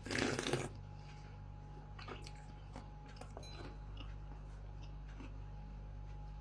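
A person eating: a short loud rustling burst at the very start, then faint chewing with scattered small clicks over a steady low hum.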